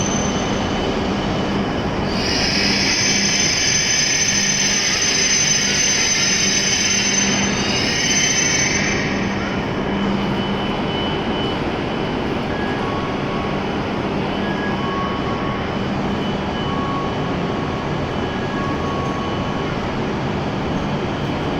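An E7 series Shinkansen train braking into the platform. A loud high squeal and hiss rise about two seconds in and fade out after about nine seconds as the train comes to a stop. A steady hum from the train's equipment runs throughout.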